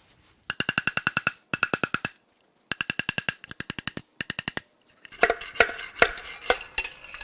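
A wrench working a connecting-rod nut on a torn-down V8: four quick runs of evenly spaced metallic clicks, about ten a second, with a ringing pitch. About five seconds in, irregular clanks of metal parts knocking together follow.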